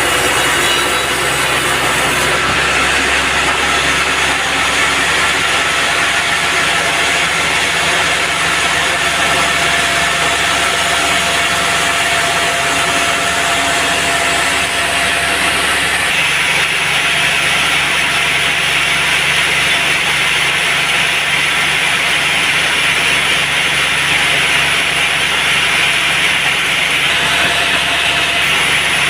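Band sawmill running steadily, its blade cutting through an old teak log, with the machine's engine tones under the hiss of the cut. The sound changes slightly about two seconds in and again about halfway.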